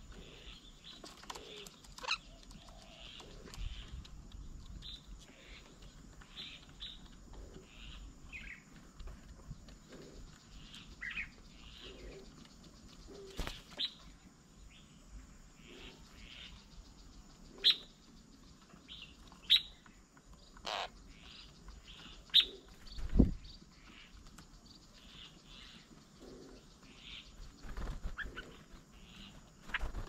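Birds chirping and calling in short, scattered notes throughout, with several sharp clicks standing out louder above them.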